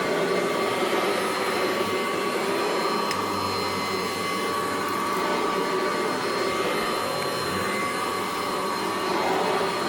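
1982 Kirby Heritage 1 upright vacuum cleaner running steadily: a constant motor-and-fan rush with a steady high whine on top, no change in speed.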